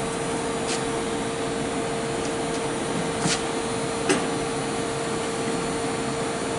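Steady drone of a running machine with a constant hum. Three or four short knocks sound over it, the sharpest about four seconds in, as exhaust mufflers are handled and test-fitted under the car.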